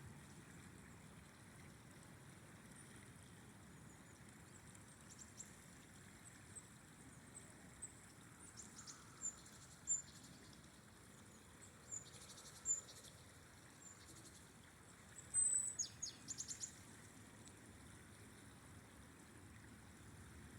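Faint, steady rush of flowing river water, with a bird's short, very high chirps starting about a quarter of the way in and bunching into a louder flurry about three-quarters of the way through.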